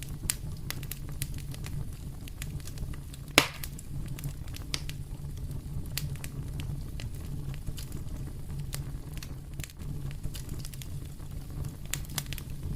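Fire in a fireplace crackling, irregular small snaps over a steady low rumble, with one sharp loud pop a little over three seconds in.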